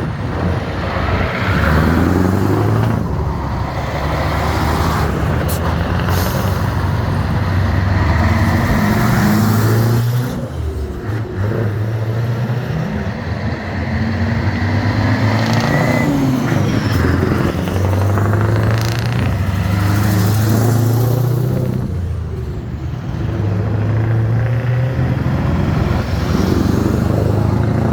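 Engines of old trucks running as several go by one after another, each one swelling and then fading.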